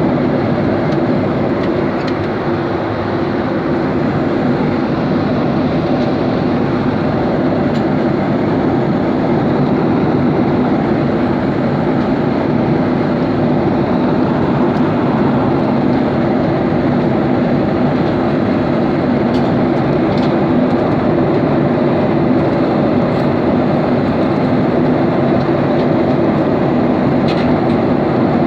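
Airplane noise: a loud, steady drone with a low hum, holding unchanged throughout.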